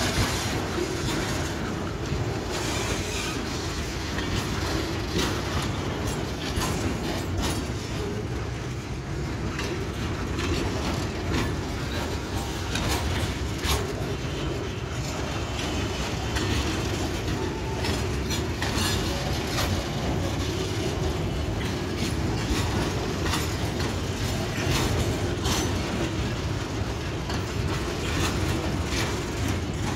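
Tank wagons of a freight train rolling past at close range: a steady rumble of steel wheels on the rails, broken by frequent sharp clacks as the wheels cross rail joints.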